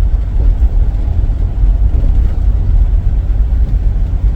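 Steady low rumble of a van's engine and road noise, heard from inside the moving van's cabin.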